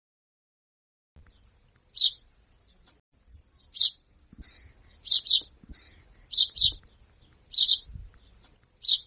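Short high chirps from an animal, about eight of them, some single and some in quick pairs, spaced a second or so apart.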